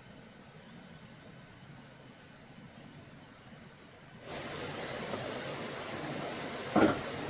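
A steady high insect trill over quiet background. About four seconds in, it gives way abruptly to a louder, steady rushing noise, with a short loud thud near the end.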